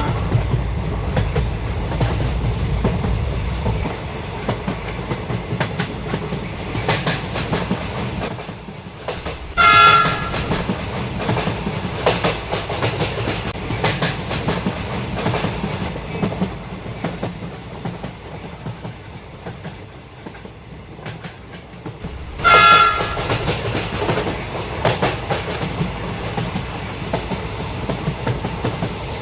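Train running on rails, a steady rumble with repeated wheel clicks. Two short horn blasts sound, one about 10 seconds in and one about 22 seconds in.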